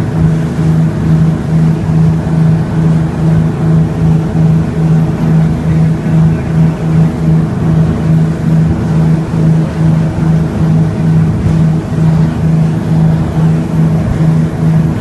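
Boat engine running steadily at cruising speed, its drone throbbing evenly about two to three times a second.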